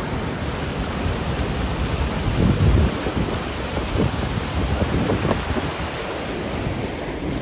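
Steady rush of fast-flowing glacial floodwater, with wind buffeting the microphone in low rumbling gusts, the strongest about two and a half seconds in.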